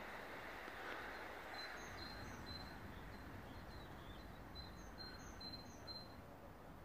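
Small birds chirping in short, high-pitched runs over a faint, fading rumble of background noise, the last of a passing electric train dying away.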